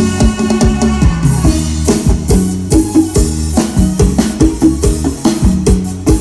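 Thai procession band music through a loud sound system: a drum kit beating a fast, steady rhythm of several hits a second over bass and pitched instrument lines.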